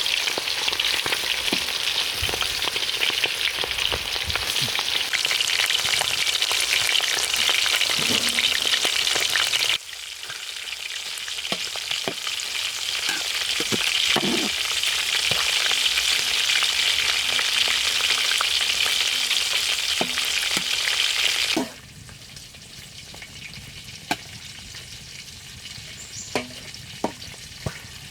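Frog pieces frying in hot oil, a loud steady sizzle. It drops suddenly about ten seconds in and builds back up, then falls to a much quieter sizzle with a few faint clicks near the end.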